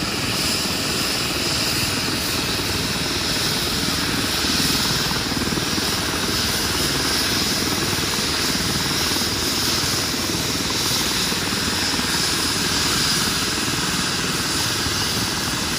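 Air ambulance helicopter running steadily, its rotor blades beating rapidly.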